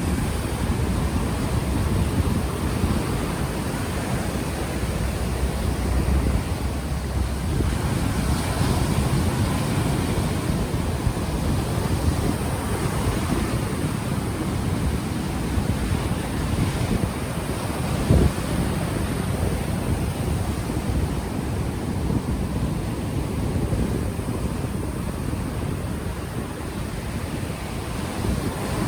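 Ocean waves washing in, heavily overlaid with low wind rumble buffeting an unshielded microphone. One brief thump about two-thirds of the way through.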